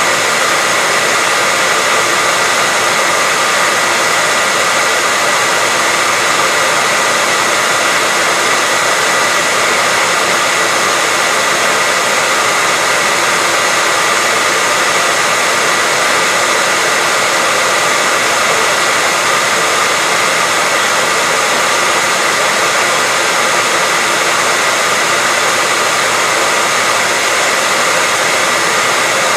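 Hair dryer running steadily as white noise: an even, unbroken rush with a thin steady whine near the top of the hiss.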